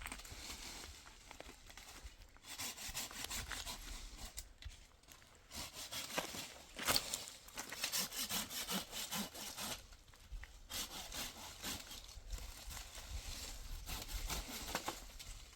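Hand saw cutting wood: runs of back-and-forth strokes, broken by short pauses about two, five and ten seconds in.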